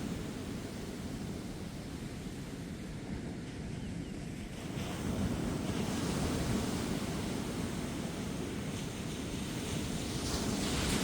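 Ocean waves breaking and washing up a beach, a steady rush that swells about halfway through and again near the end, with gentle wind.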